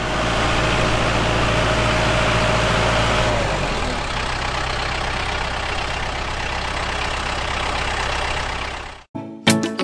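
A motor running steadily with a low hum. About three and a half seconds in, its pitch drops and it runs on a little more quietly, then cuts off suddenly near the end.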